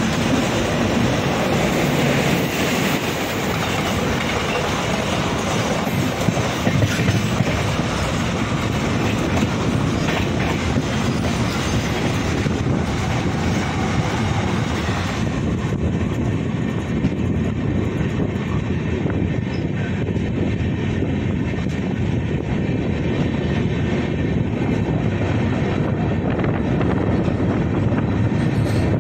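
Express train running along the track, a steady continuous noise of wheels and rails. About halfway through, the higher part of the sound drops away.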